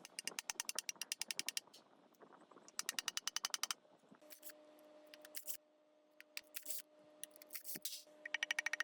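Socket ratchet wrench clicking in quick runs of about a dozen clicks a second, three times, as bolts are worked loose, with a few single clicks between. A faint steady hum comes in about four seconds in.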